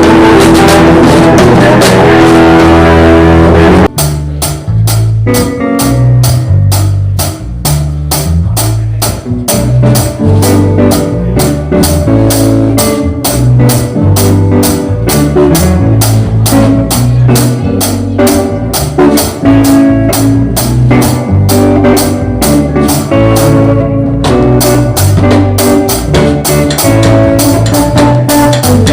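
Live band with drum kit, guitar and bass jamming, recorded very loud and distorted. About four seconds in, the dense full-band wash breaks off into a steady drum-kit groove with bass and guitar.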